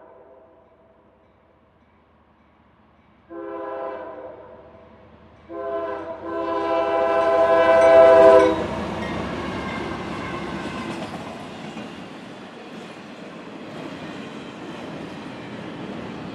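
CSX freight locomotive's multi-note air horn sounding for a grade crossing: a short blast, then a long one that grows louder as the lead locomotives reach the crossing and stops abruptly. The steady rumble and wheel clatter of the passing intermodal train follow.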